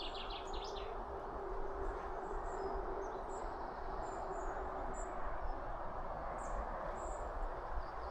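Woodland birds singing over steady outdoor background noise: a trilled song ends about a second in, then faint short high chirps come now and then, over a constant hiss with a faint low hum.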